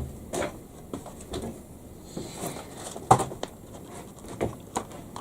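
Hands working at a cardboard box to open it: scattered light taps, scrapes and rustles, with one sharper knock about three seconds in.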